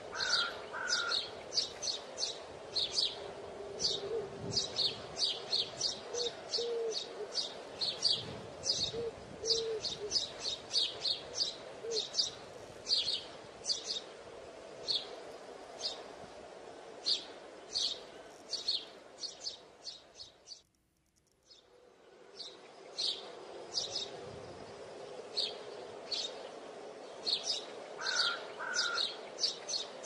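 Birds chirping: quick, high, short chirps several times a second, with a few lower notes mixed in. Everything cuts out for about a second around two-thirds of the way through.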